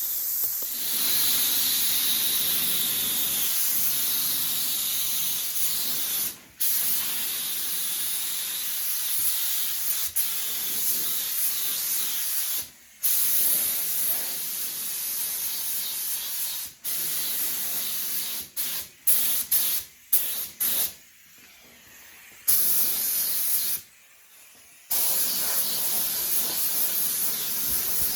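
Paint spray gun hissing as primer is sprayed, in long steady passes broken by short stops where the trigger is let go, with a run of quick on-off trigger pulls about two-thirds of the way through.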